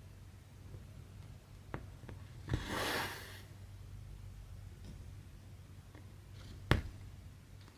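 Cross-stitching handling sounds over a low steady hum: light taps, a click and a short swish about two and a half seconds in, like thread drawn through the fabric, and a sharp tap near the end.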